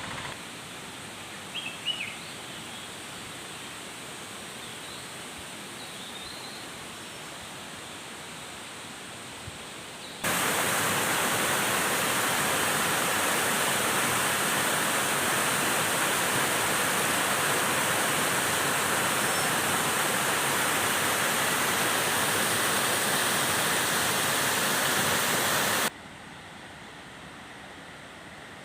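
Steady rush of flowing water, quieter at first with a few short bird chirps about two seconds in. About ten seconds in it jumps abruptly to a much louder, even rush, which cuts off suddenly near the end, leaving the quieter hiss.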